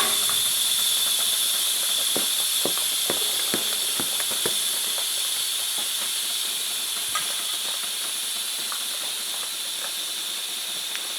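Air hissing steadily out of a tractor's front tyre as it is let down, slowly fading, with scattered light knocks from work on the wheel.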